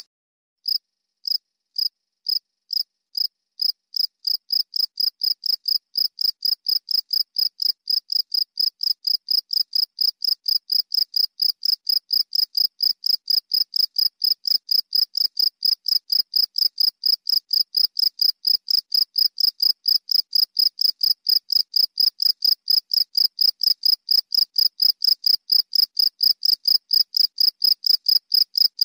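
A cricket chirping in an even rhythm of short, high-pitched pulses. A few spaced chirps start just after a brief gap, then they settle to about four a second.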